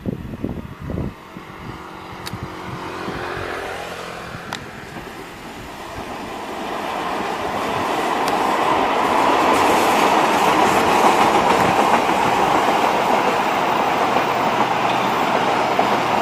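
Diesel-electric passenger train passing: a locomotive engine note that falls in pitch in the first few seconds, then the steady rolling rumble and rattle of the coaches on the track, growing louder and holding.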